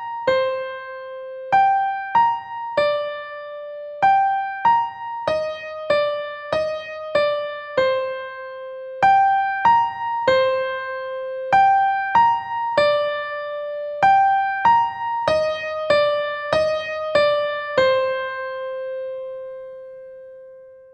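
Slow, gentle electric piano melody of single ringing notes, struck roughly one or two a second. The last note is held and fades out near the end.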